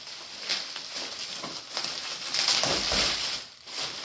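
Packaging being handled, rustling and crinkling irregularly.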